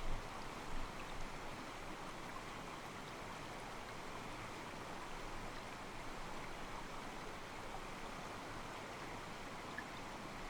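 Calm mountain stream: water sloshing softly against rocks in a steady rushing, with a few louder surges near the start.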